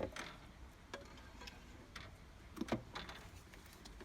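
Several light, scattered clicks and taps of small parts and tools being handled, the loudest a little under three seconds in.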